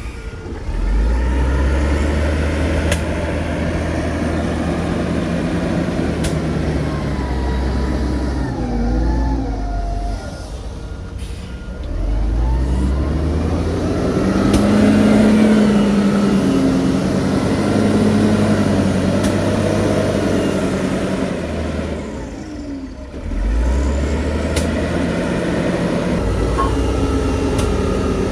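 Heavy diesel earthmoving machinery running hard. The engine sags and then revs back up three times, about every eleven seconds, as it takes load.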